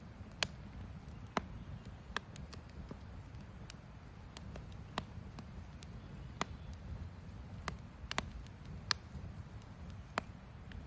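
Wood campfire crackling: sharp, irregular pops, about one a second, over a low steady rumble.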